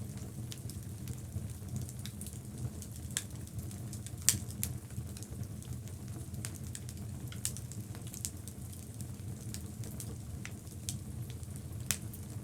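Logs burning in a fireplace: a low steady rumble of flames with scattered sharp crackles and pops, the loudest pop about four seconds in.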